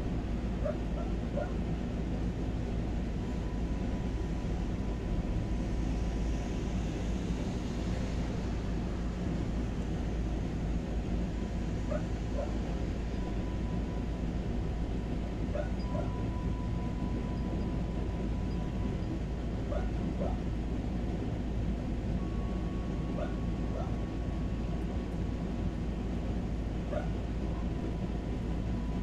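A dog barking in the distance: short barks, often two close together, every few seconds over a steady low rushing background.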